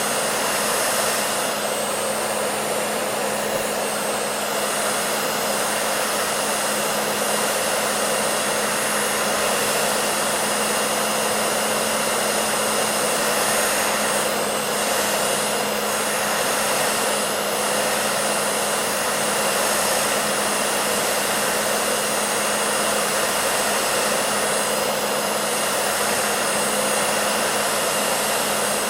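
Hair dryer running steadily: an even rushing of blown air with a steady low motor hum underneath.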